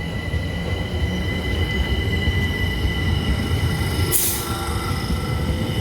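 Southern Class 377 Electrostar electric multiple unit at the platform: a steady low rumble under a constant high electrical whine, with a short hiss of air about four seconds in.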